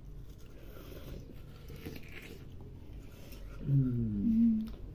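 Wet biting and chewing of ripe watermelon slices, faint crunching and mouth sounds. Close to four seconds in, a short voiced sound from one of the eaters, falling then holding its pitch, is the loudest thing.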